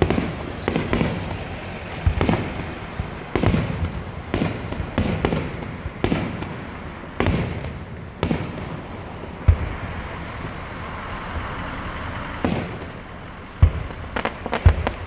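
Aerial fireworks shells bursting one after another, about one bang a second, each with a short echoing tail. The bangs pause for a few seconds of softer hiss after about nine seconds, then two sharp bangs come near the end.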